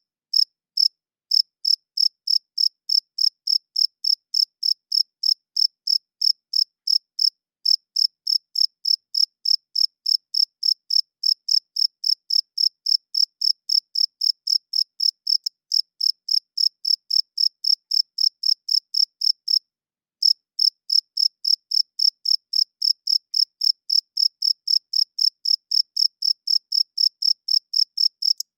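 Male cricket chirping, wings rubbed together, in an even high-pitched rhythm of about three chirps a second, with one brief pause about twenty seconds in.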